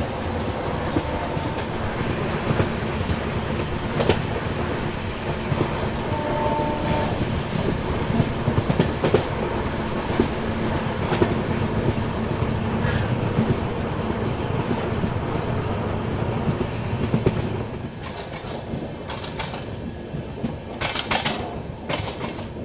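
Passenger express train running on broad-gauge track: a steady rumble from the coaches, with scattered clicks and knocks from the wheels on the rails. It gets somewhat quieter about three-quarters of the way through.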